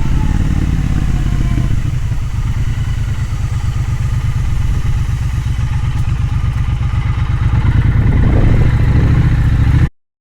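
Motorcycle engine running steadily under way, heard from on the bike. It grows a little louder near the end, then cuts off suddenly.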